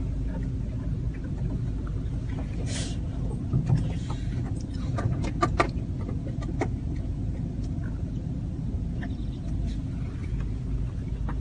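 A car's engine running, heard from inside the car as a steady low rumble, with a few sharp clicks about halfway through.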